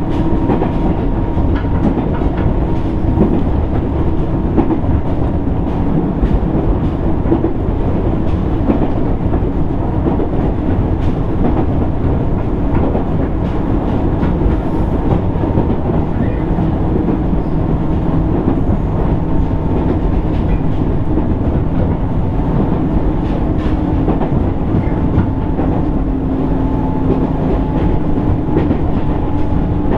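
JR East 205 series 600 subseries electric train heard from inside motor car MoHa 204-604, running steadily. There is a continuous wheel-on-rail rumble under a steady traction motor and gear hum, with some light clacking over the rails.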